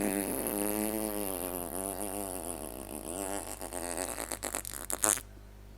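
A long, drawn-out comedic fart sound effect, its pitch wobbling up and down, breaking into short sputters near the end.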